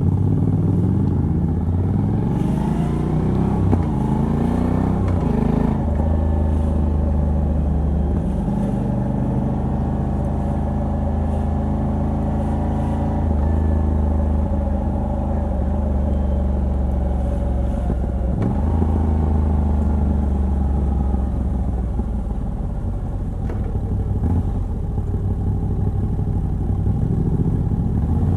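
Moto Guzzi V85TT's air-cooled 853 cc transverse V-twin, on the stock exhaust with a Mistral decat pipe, heard from the rider's seat. It revs up twice through the gears in the first few seconds, then cruises at a fairly steady pace.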